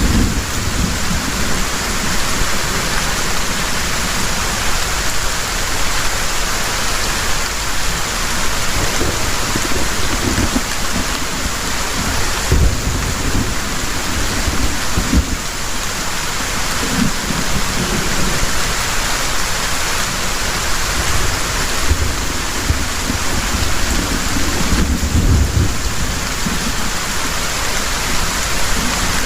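Heavy rain pouring steadily, with low rolls of thunder rumbling up several times underneath.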